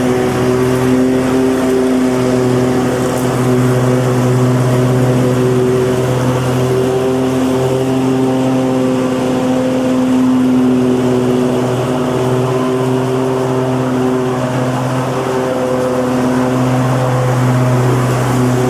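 Lawn mower engine running at a steady speed: a continuous even hum that wavers slightly in pitch and strength.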